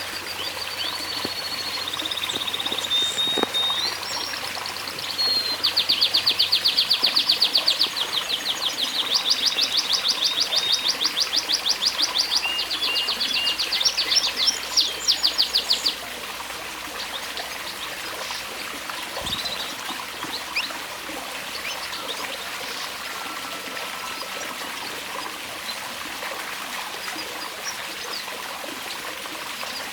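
Domestic canary singing a long song of fast trilled rolls, stopping about halfway through. A steady trickle of running water continues throughout, with a few faint chirps after the song ends.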